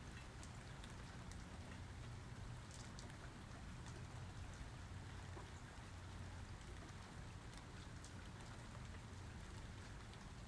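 Steady rain falling, with scattered ticks of individual drops over an even hiss and a low steady drone underneath.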